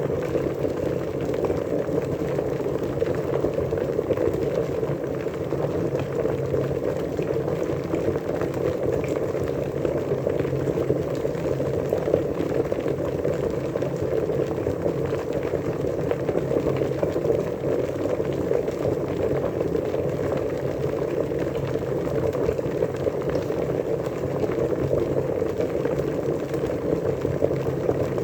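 Water at a rolling boil, a steady dense bubbling that does not let up.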